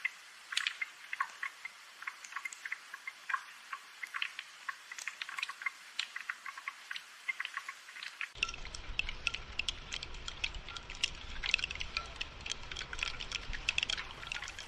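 Rain falling in irregular, close-spaced drips and ticks. About eight seconds in, a low rumble joins the drops.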